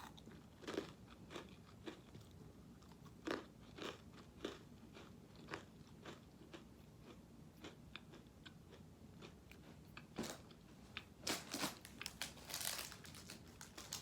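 A crunchy snack being bitten and chewed close up: irregular crisp crunches, a few seconds apart at first, with a louder run of crunches near the end.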